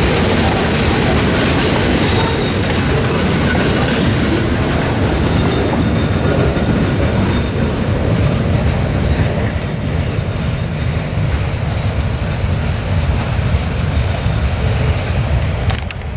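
Freight train rolling over the rails: the last boxcars clatter past, then the train's rumble carries on steadily as it moves off, easing a little near the end.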